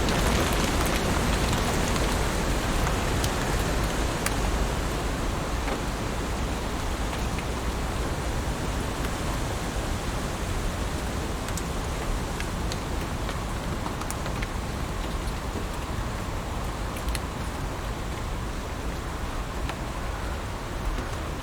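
Heavy rain falling steadily as a dense hiss, with scattered sharp drip ticks, easing slightly in level over the stretch.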